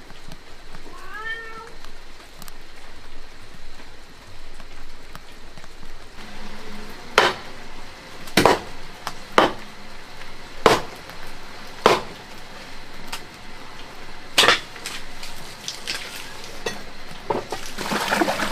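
A cat meows once, a rising-then-falling call, about a second in. From about seven seconds on come about seven sharp knocks, roughly one a second.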